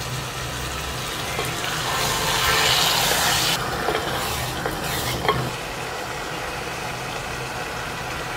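Rice, mushrooms and freshly added yogurt sizzling in a hot pot as a spoon stirs them. The sizzle swells for a couple of seconds, then the spoon clicks and scrapes against the pot a few times, over a steady low hum.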